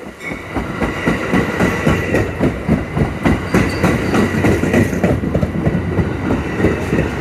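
Amtrak Capitol Corridor passenger train rolling through the station, its wheels clicking in a steady run over the rail joints, with a thin steady whine that fades out about five seconds in.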